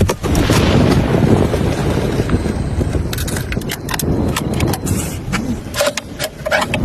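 Rain storm noise with a deep low rumble, loudest in the first few seconds, then many sharp taps from about three seconds in.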